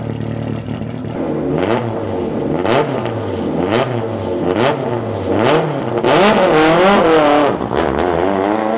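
Lancia Delta's engine revving up and down about once a second, with a sharp crack at each drop in revs and one longer, louder rev near the end.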